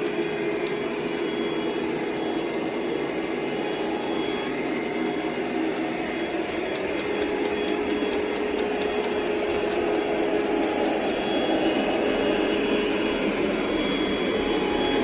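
ECOVACS DEEBOT T50 PRO Omni robot vacuum system running with a steady, loud whir and hum, a little louder in the second half.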